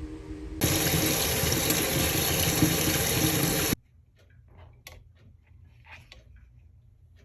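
Water running hard from a tap for about three seconds, then stopping suddenly, followed by a few faint clicks and knocks.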